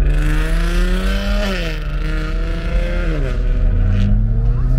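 Car engine accelerating hard through the gears: its pitch climbs, drops sharply at a shift about a second and a half in, climbs again, drops at a second shift near the three-second mark, then climbs once more.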